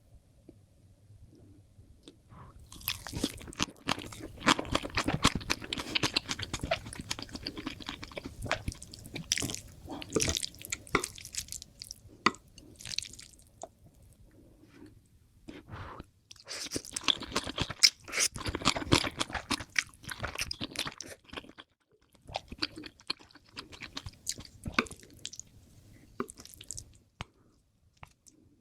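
A person chewing Korean instant noodles, with many small wet clicks and smacks. The chewing comes in three long bursts of several seconds each, with short pauses between them.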